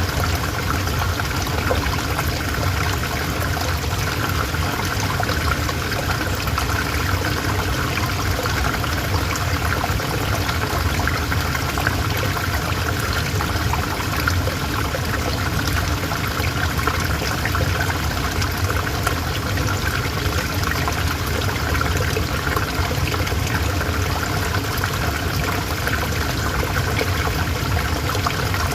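River water flowing steadily, an even rushing and trickling with no change in level.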